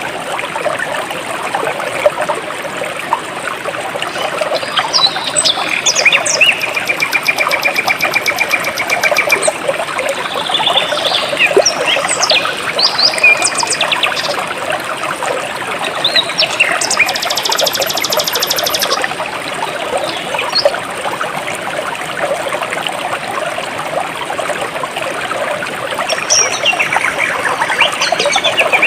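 Jungle stream flowing and trickling steadily, with birds chirping and whistling over it. A fast even trill comes about six seconds in, and two short, high, rapidly pulsing buzzes come around eight and eighteen seconds in.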